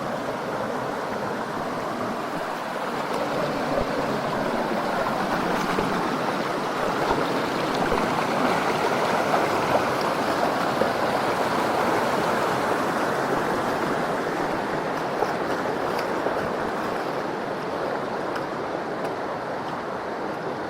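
Mountain stream flowing steadily, an even rushing of water that swells a little in the middle.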